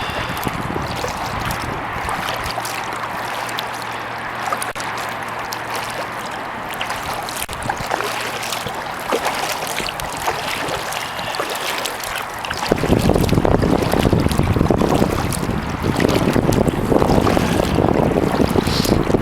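Kayak paddling on calm water: a steady swish of water with small drips and splashes, under a faint low hum. About thirteen seconds in, wind starts buffeting the microphone with a loud rumble.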